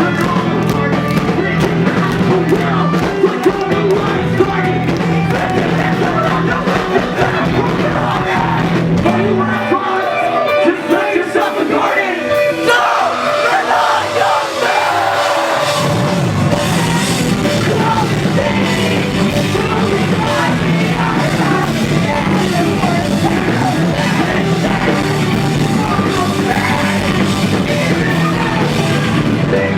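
A live post-hardcore rock band playing loud, with yelled and sung vocals over distorted guitars, bass and drums. About nine seconds in, the bass and drums drop out, leaving guitars for several seconds, and the full band crashes back in around the middle.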